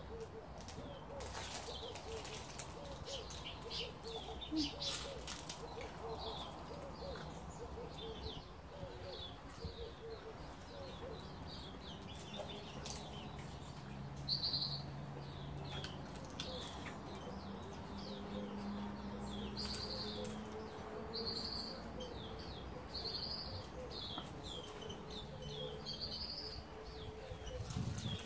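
Small birds chirping over and over, with a lower repeated call under them. There are a few short, sharp clicks in the first five seconds.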